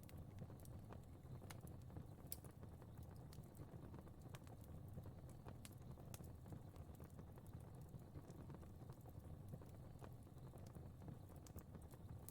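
Fire crackling faintly: scattered sharp pops and snaps, several a second, over a low steady rumble of flames.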